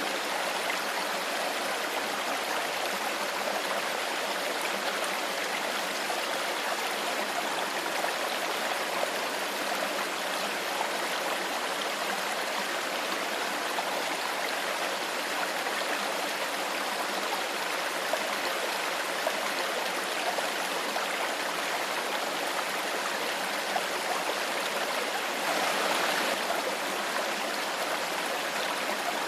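Clear stream water flowing steadily, an even rushing and babbling, with a brief louder surge near the end.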